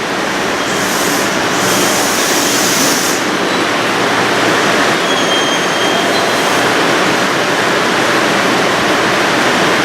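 Electric train running into the station, a steady loud rumble of wheels on rail with short hisses high up about a second and two seconds in, and faint thin squealing tones a little after the middle.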